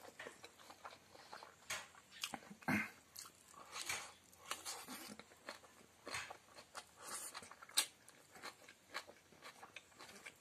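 Close-up chewing and lip-smacking of a mouthful of rice with fried chicken intestine and pork fat, eaten by hand, with irregular wet clicks and a few sharper crunches.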